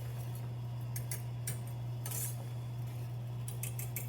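Scattered light clinks and taps of kitchen utensils against a pot, over a steady low hum.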